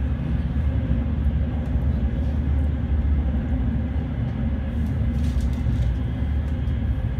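Steady low rumble of a moving train, heard from inside the passenger car.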